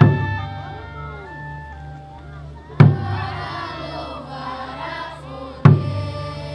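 Group singing with music, cut by three loud, sharp beats about three seconds apart, each ringing briefly.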